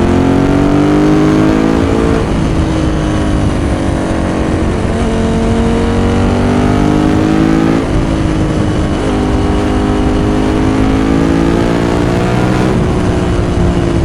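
Ducati 916's V-twin engine pulling hard, its pitch climbing and then dropping sharply at each upshift, about two, eight and thirteen seconds in.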